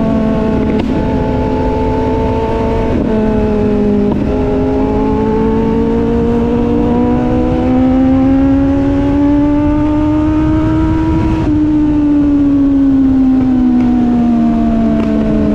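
Motorcycle engine running under way: its pitch steps down at a few gear changes in the first four seconds, climbs steadily as the bike accelerates until about eleven seconds in, then falls off slowly as it slows.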